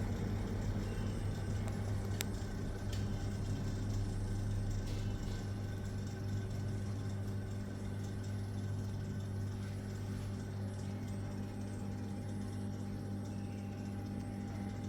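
Electric wall or exhaust fan running, its motor giving a steady mains hum with the whoosh of the blades.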